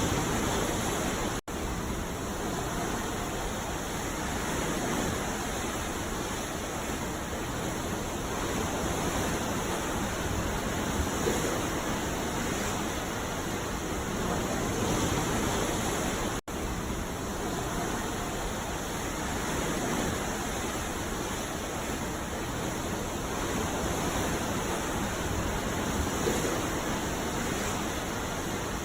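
Ocean surf breaking on a beach: a steady, dense wash of waves that swells gently every few seconds. It cuts out for an instant twice, about a second and a half in and again about sixteen seconds in.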